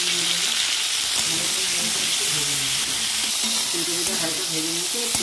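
Cauliflower florets frying in hot mustard oil in a kadai, a steady loud sizzle, as the pieces are stirred through with turmeric and salt.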